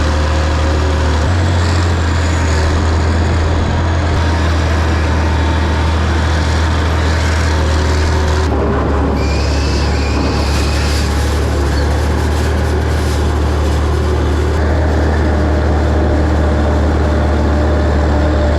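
Tractor engine running steadily under load with a deep low drone, pulling a seed drill. The sound shifts a little about a second in and again about eight and a half seconds in.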